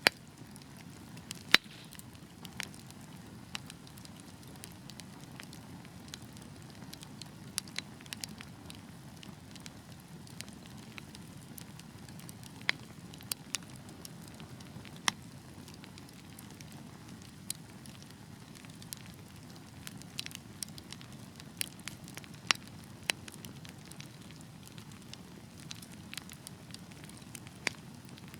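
Wood fire crackling: a low steady burning rush with frequent sharp pops and snaps at irregular intervals, a few of them louder.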